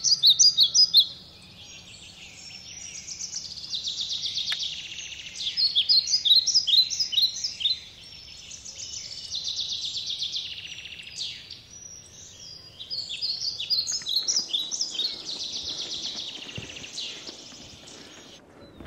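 Birds singing and chirping in fast trills of high notes, in phrases a few seconds long with quieter gaps between; the song cuts off suddenly near the end.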